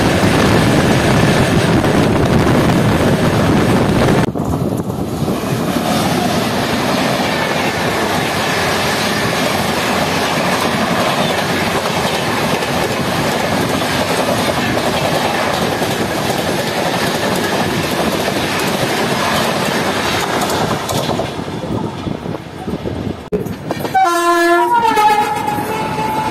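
Noise of trains running past each other on adjacent tracks, heard from a moving passenger train, loudest in the first four seconds and then dropping abruptly at a cut. Near the end a train horn sounds, falling in pitch and then holding one note.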